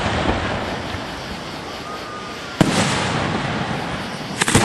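Aerial fireworks going off: one sharp report about two and a half seconds in and a quick cluster of reports near the end, each followed by a long fading rumble.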